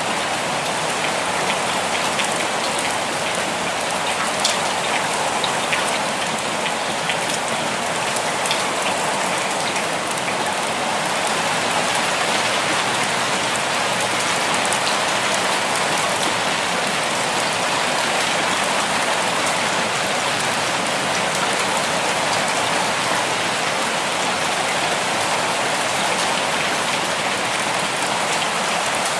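Steady rainfall, an even hiss of rain on surfaces with scattered individual drops ticking through it.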